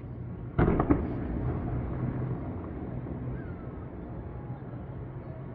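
Aerial fireworks shells bursting at a distance. A sharp boom comes about half a second in, with a few quick cracks after it, then a long rolling rumble that slowly fades over a steady low hum.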